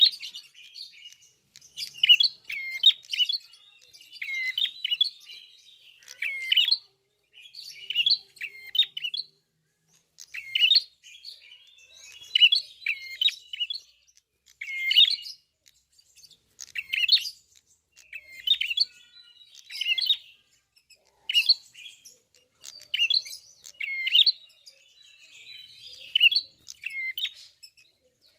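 Ashy tailorbird (prenjak kepala merah) singing continuously in short, sharp chirping phrases, one burst every second or two.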